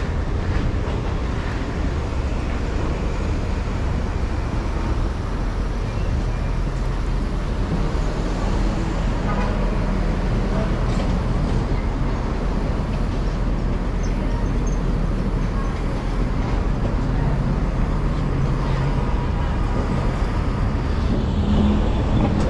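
Steady city street traffic: the continuous low rumble of cars and buses passing on a busy avenue.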